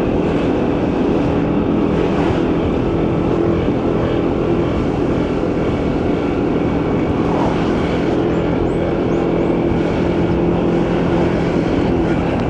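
Motorcycle engine running at a steady pace while riding, with wind and road noise over it.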